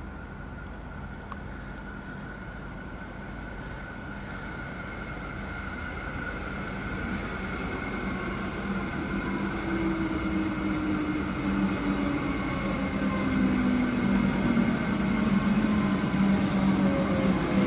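Suburban electric train approaching and slowing into the platform, growing steadily louder. From about ten seconds in, its motor whine falls in pitch as it brakes.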